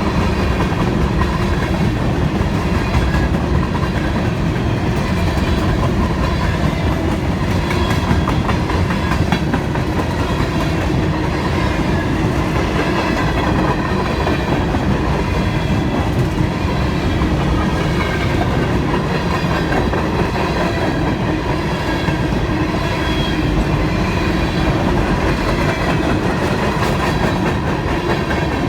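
Freight train cars rolling past: a steady rumble of steel wheels on the rails, with clickety-clack over the rail joints.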